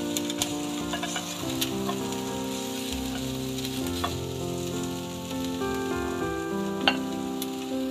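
Chopped shallots and lemongrass sizzling as they fry in a stainless-steel pan, with scattered light clicks of a silicone spatula stirring them. Soft background music with slow, held notes plays underneath.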